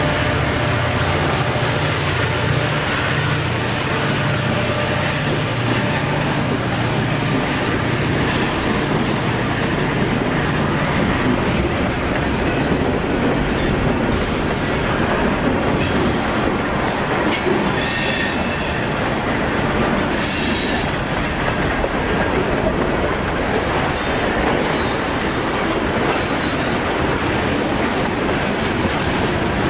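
Freight train passing close by. EMD SD40-2 diesel locomotives run past with a steady low engine drone that fades out over the first several seconds. Then hopper and tank cars roll through, with wheels clacking over the rail joints and flanges squealing in short high-pitched bursts.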